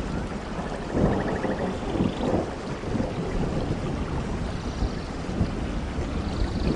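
Steady heavy rain with low, rolling thunder rumbling underneath, swelling a little about a second in.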